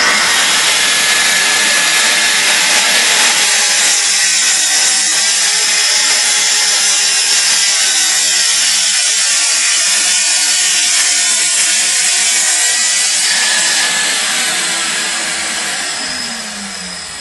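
Festool plunge-cut track saw running and cutting a straight line along its guide rail, a loud, steady saw noise. From about 14 seconds in the motor winds down, its pitch falling as the blade spins down.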